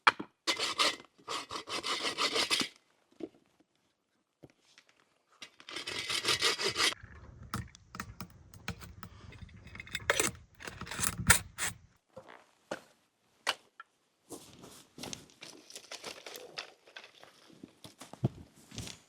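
Several bursts of repeated scraping strokes, with scattered knocks between them.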